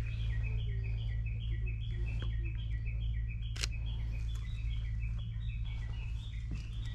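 A bird singing a fast, unbroken run of short high notes, each group stepping down in pitch, over a steady low hum. A single sharp camera shutter click comes about three and a half seconds in.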